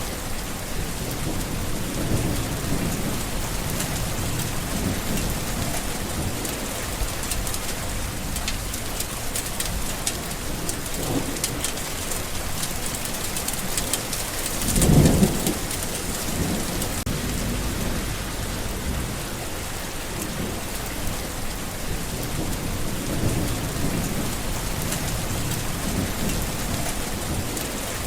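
Steady heavy rain falling, with low rolling thunder in the background and one louder clap of thunder about halfway through.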